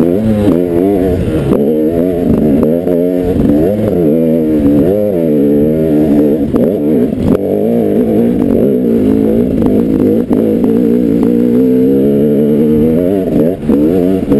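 Dirt bike engine being ridden, its pitch rising and falling over and over with the throttle and gear changes, with a few sharp clicks and knocks.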